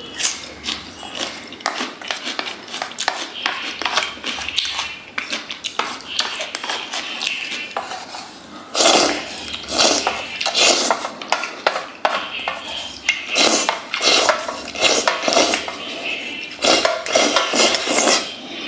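Chopsticks clicking and scraping against a bowl while working noodles through a sauce, with many quick clinks.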